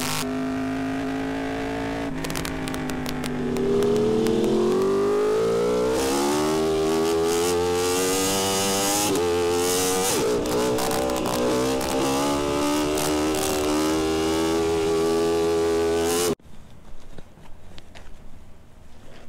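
Yamaha R1M's crossplane inline-four engine running, climbing in revs about four seconds in and held at higher revs with small rises and dips, then cutting off suddenly near the end; quieter, uneven noises follow.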